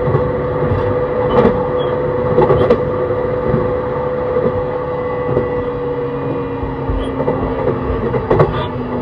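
Interior running sound of a JR East E131 series 600 subseries electric train with a Hitachi hybrid SiC VVVF inverter: a steady motor and inverter tone over rumbling wheels, with the wheels clacking over rail joints a few times. The tone steps lower about six seconds in.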